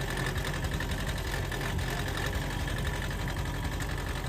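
An engine running steadily: a low, even rumble with a faint steady whine above it.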